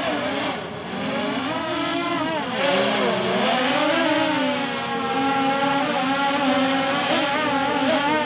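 DJI Mavic Air 2 drone's propellers and motors whining, the pitch wavering and gliding up and down as it descends.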